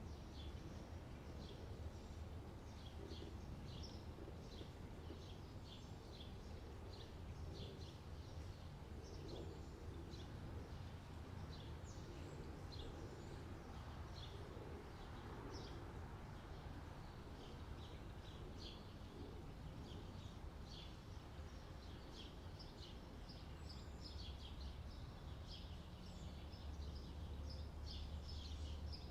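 Small birds chirping, with many short, quick calls throughout, over a steady low background rumble.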